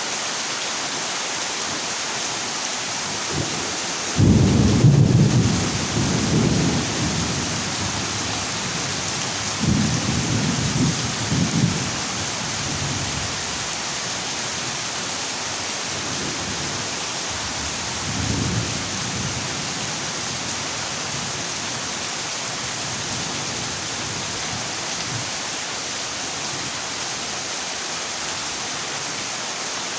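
Heavy rain drumming steadily on a corrugated zinc roof, with thunder rolling in: a loud low rumble about four seconds in, another around ten seconds in, and a fainter one a little later.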